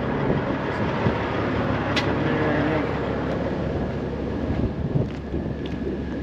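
Engine running steadily, with a sharp click about two seconds in.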